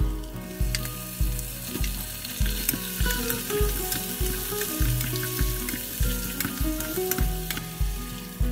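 Chicken pieces and onions sizzling in butter in a pot while a wooden spatula stirs them, over background music with a steady beat.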